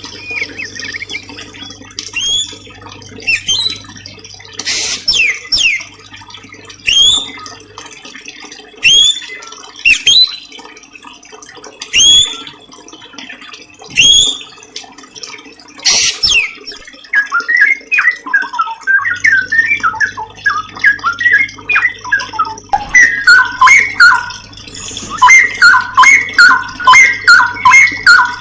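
Songbird calls from a masteran (birdsong training) recording: sharp rising call notes repeated about once a second, then from about two-thirds of the way in a fast, dense run of lower chirping notes.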